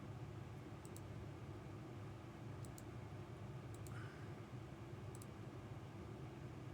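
Faint sharp clicks in quick pairs, about four times, over a steady low hum.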